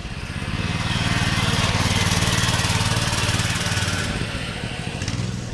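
Small engine of a motorized kids' bike passing by, its steady engine note growing louder to a peak about two seconds in and then fading away.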